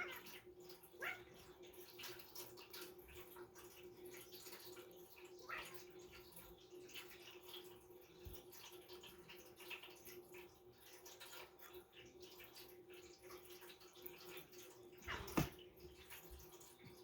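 Faint patter of rain with scattered small drips, over a steady low hum. A short, louder sound comes about fifteen seconds in.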